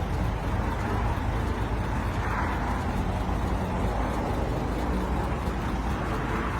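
1953 Chevrolet 3100 pickup's 235 cubic inch inline-six engine running steadily.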